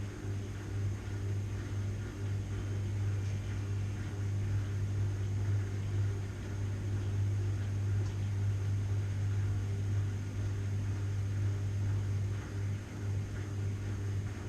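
Washing machine running: a steady low hum with an even noisy wash over it.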